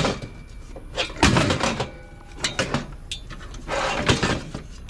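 Scrap metal pieces being handled and stacked: a sharp knock, then several bouts of clattering and scraping, with a faint ringing after the first knock.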